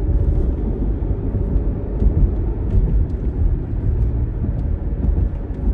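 Car being driven, heard from inside the cabin: a steady low rumble of engine and road noise with a faint steady hum above it.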